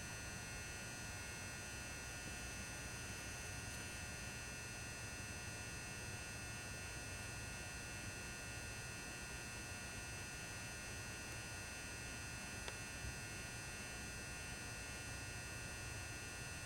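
Faint, steady electrical hum with thin high whining tones from a burning 400-watt high-bay mercury vapor lamp and its ballast. A couple of tiny ticks sound about two-thirds of the way through.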